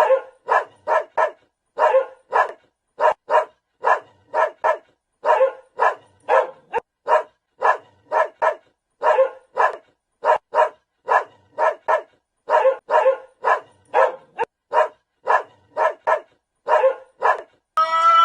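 A dog barking repeatedly in quick runs of two or three short barks, with brief silent gaps between the runs. Near the end the barking gives way to a different, tuneful sound.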